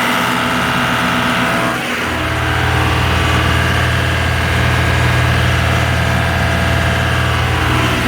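Engine running steadily. About two seconds in, a deep low hum grows stronger and holds, then drops back near the end.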